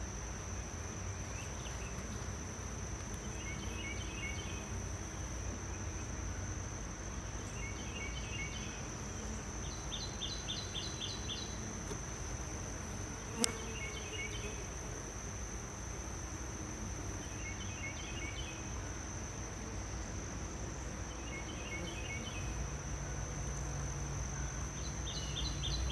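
Honey bees humming over an open hive during a frame inspection, with a steady high-pitched insect trill and short bursts of chirping repeating every two seconds or so. A single sharp click about halfway through.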